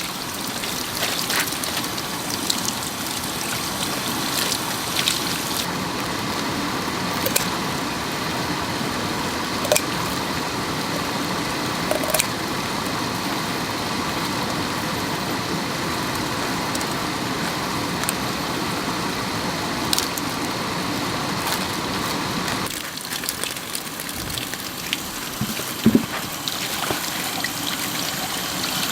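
Steady rushing, trickling water with a few light clicks scattered through it; the sound thins somewhat about three quarters of the way in.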